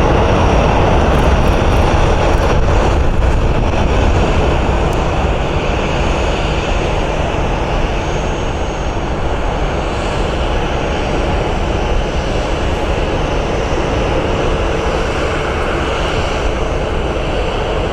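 Jet airliner engines running, a loud steady roar with a faint high whine, a little louder over the first few seconds.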